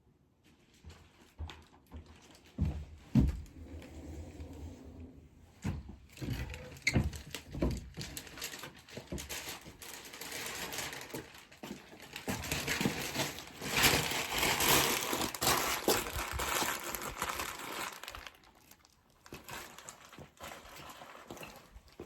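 Dry tinder and twigs rustling and crinkling as they are handled, with a few dull knocks about three seconds in; the crinkling is thickest in the middle of the stretch.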